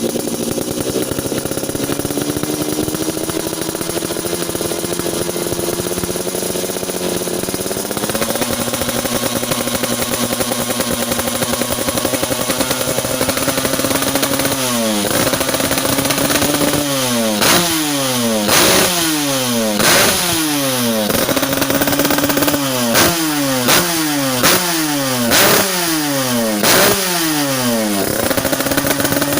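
Motorcycle engine through a GRM aftermarket exhaust idling steadily, then revved in about ten short throttle blips from halfway through, the revs dropping back after each, before settling to idle again near the end.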